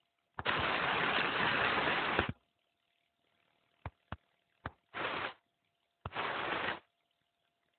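Rain noise coming and going in hard-edged bursts, one of about two seconds and then two shorter ones, with near-silent gaps and a few sharp clicks in between.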